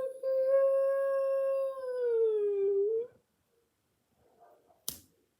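A long howl, held steady for about three seconds and then dropping in pitch before it stops. A single sharp click follows near the end.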